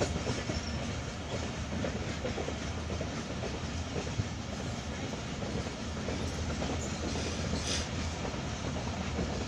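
Steady running noise of a moving train heard from on board a carriage.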